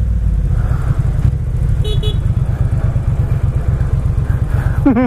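Motorcycle engine running at low road speed, a steady low pulsing exhaust note. A short two-part beep, like a vehicle horn, sounds about two seconds in.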